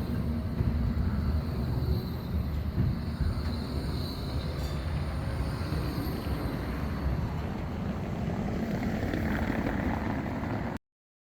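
Škoda 52T ForCity Alpha tram running on its rails: a steady low rumble of wheels and running gear, which cuts off suddenly shortly before the end.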